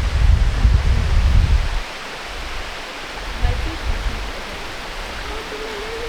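Steady rushing of a waterfall, a dense even hiss of falling water. A low rumble sits under it for about the first two seconds, then stops.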